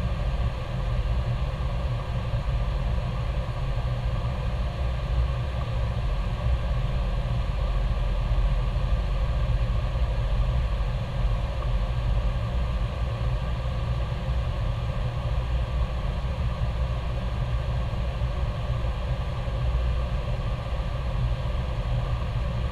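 Steady cabin noise on the flight deck of an Airbus A321: a constant low rumble with a steady hum above it, with no change in level.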